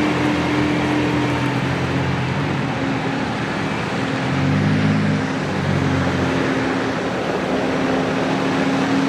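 Massey Ferguson 4610M tractor's three-cylinder turbo diesel engine running steadily, its note changing briefly around the middle.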